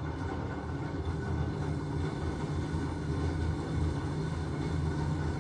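LG washing machine running, a steady low mechanical hum.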